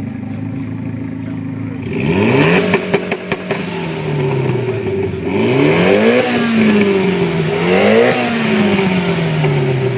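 Mitsubishi Lancer Evolution X's turbocharged four-cylinder, breathing through an AMS downpipe, test pipe and HKS Hi-Power exhaust, idling, then revved three times. Each rev climbs and falls back, and the first, about two seconds in, is followed by a run of sharp exhaust pops.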